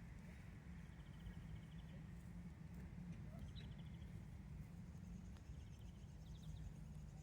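Faint outdoor garden ambience: a steady low rumble with small birds giving short, rapid high trills several times in the distance.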